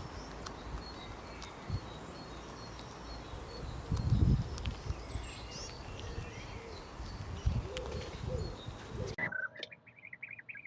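Small birds chirping and singing over outdoor background noise, with a few low thumps. About nine seconds in, a different recording cuts in with a quick run of duck quacks.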